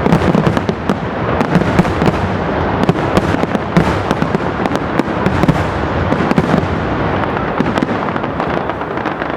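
Professional fireworks display: a dense, continuous barrage of overlapping bangs and crackling, many shots a second, easing slightly near the end.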